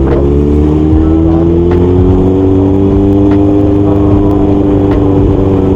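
Kawasaki Z800 inline-four engine, with its racing exhaust, pulling under gentle acceleration. The pitch rises over the first couple of seconds, then the engine settles into a steady cruise, picked up by a helmet-mounted microphone.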